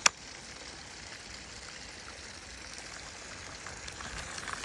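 Creek water running steadily, an even rushing hiss, with a single sharp click just at the start.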